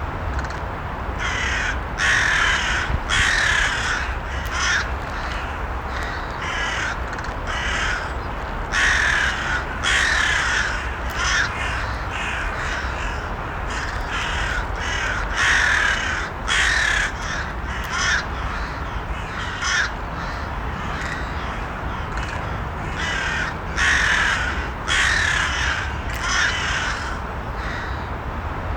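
Crows cawing, many short harsh calls in irregular runs, over a steady low background rumble.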